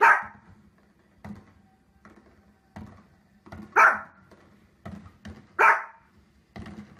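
A small fluffy dog barking three times, loud and sharp: once at the start, then about four seconds in, then again about two seconds later. There are fainter short thuds between the barks.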